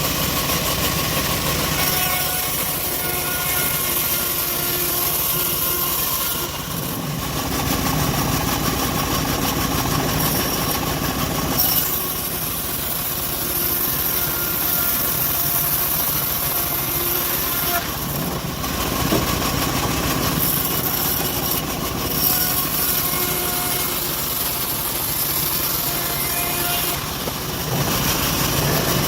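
Homemade band sawmill running, its engine steady and the blade cutting through acacia wood. The high hiss of the cut drops out briefly three times, about a quarter of the way through, past halfway, and near the end.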